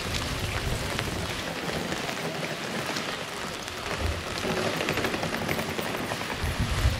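Steady rain falling on a wet street, an even hiss with scattered drip ticks. A couple of low thumps about four seconds in and just before the end.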